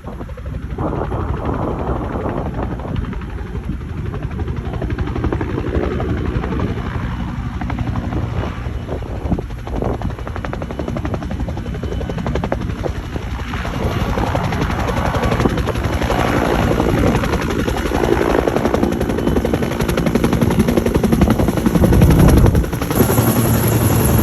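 Helicopter running close by, its rotor beat steady and growing louder, loudest near the end.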